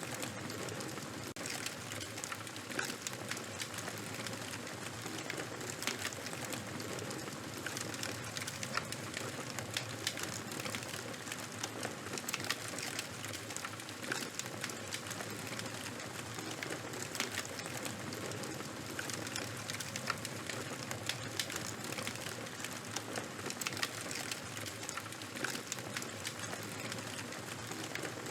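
Charcoal and wood fire crackling: frequent small sharp pops over a steady hiss.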